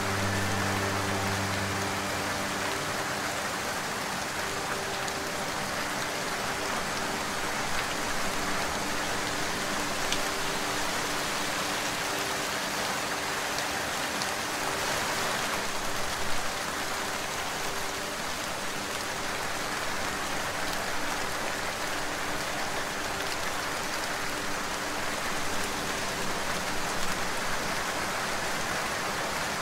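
Rain falling steadily: an even hiss of many drops with no break.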